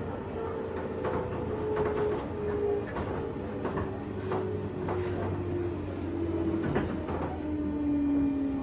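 Running sound inside a JR West 201 series electric train's motor car: the traction motor whine falls steadily in pitch as the train slows, over steady rolling noise and repeated clacks of wheels over rail joints.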